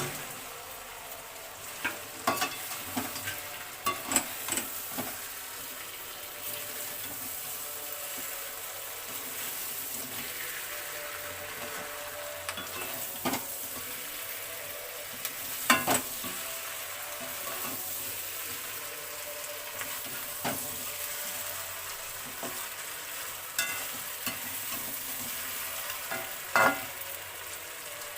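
Chicken pieces being added and stirred into a pan of frying onion, capsicum and sauces: a steady sizzling hiss with scattered sharp clinks and scrapes of the spatula against the pan, the loudest a little before halfway and near the end.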